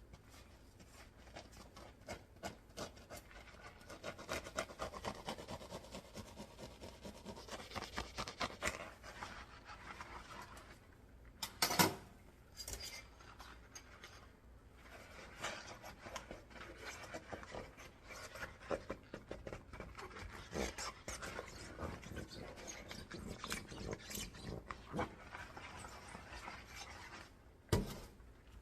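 Dishes being washed by hand: continual scrubbing and rubbing with light clicks of dishes against each other, and two louder knocks, one near the middle and one near the end.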